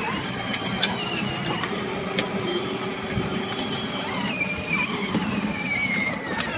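A vehicle's high-pitched motor whine that wavers and slides lower near the end, over a steady rattling hum with a few light clicks.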